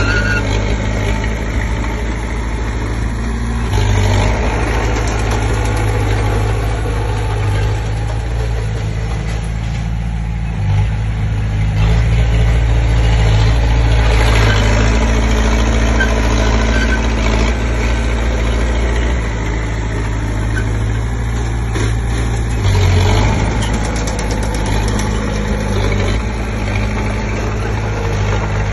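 Komatsu D20P bulldozer's diesel engine running under load while pushing soil, the engine note swelling and easing a few times.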